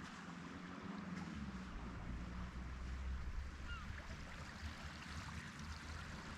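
Seaside ambience: a steady hiss of gently lapping sea water over a low rumble, with a few faint short chirps.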